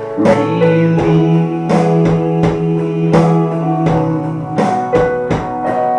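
Live band playing a worship song, with guitar strumming in a steady rhythm over held notes. A singer holds the word "relieved" about a second and a half in.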